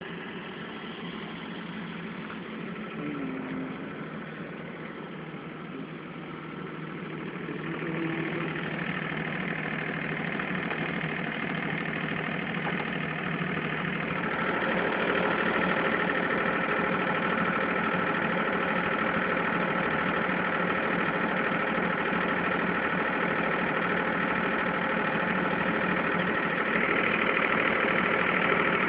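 Generator engine running steadily. It gets louder about a quarter of the way in and again about halfway, with a brief brighter rise near the end.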